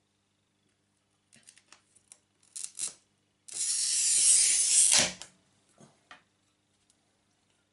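Glass cutter scoring a sheet of glass: a steady scratchy hiss of about a second and a half that ends with a knock. A few light clicks and taps come before it.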